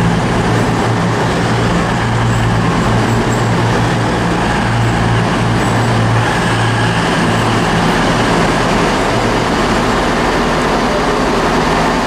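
Class 220 Voyager diesel multiple unit at the platform, its underfloor diesel engines running with a steady drone and a low hum.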